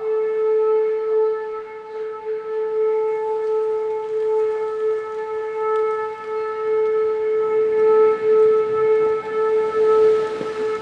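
Outdoor tornado warning siren sounding one long steady tone, its loudness slowly swelling and fading.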